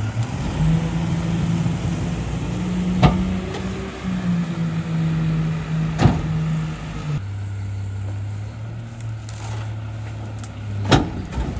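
Garbage truck engine revved up to drive the packer hydraulics, then dropping back to idle about seven seconds in. Three sharp cracks sound over it, about three seconds apart, as the load of Christmas trees is compacted.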